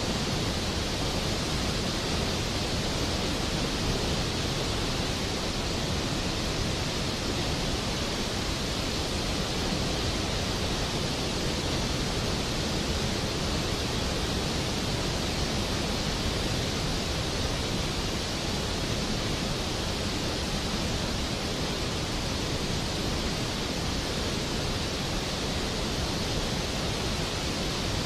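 Steady rain falling, an even, unchanging hiss with no thunder.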